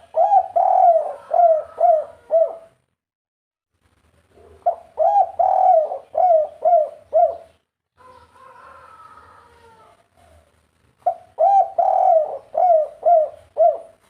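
Spotted dove of the 'kuk 3' type cooing: three phrases of about half a dozen quick, repeated coo notes each, a few seconds apart, with a fainter, softer call between the second and third phrases.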